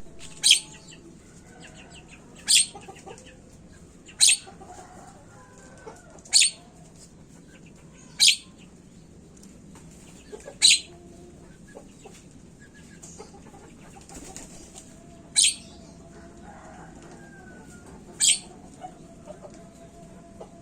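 Javan myna (jalak kebo) giving short, sharp, loud calls, one about every two seconds, eight in all, with a longer pause in the middle.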